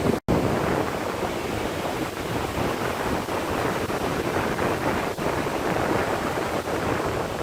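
Steady rush of ocean surf mixed with wind buffeting the microphone, broken by a brief dropout just after the start.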